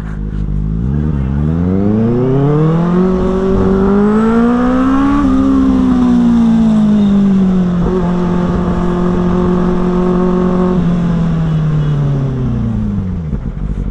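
Benelli motorcycle with a modified exhaust, riding: the engine pulls up in revs for the first few seconds, eases back to a steady note, then falls away as the throttle is rolled off near the end.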